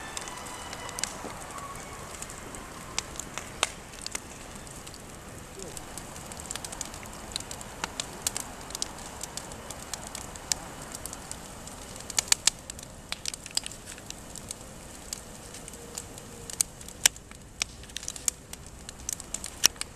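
Wood campfire crackling, with many sharp pops and snaps scattered irregularly, coming thicker in the second half.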